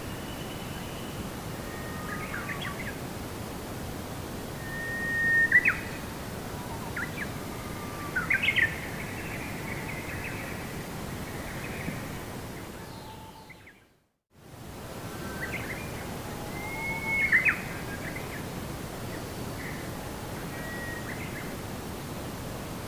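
Birds chirping and whistling in scattered short calls over a steady background hiss. About 14 seconds in, everything fades out to silence for a moment and fades back in, like the join of a looped recording.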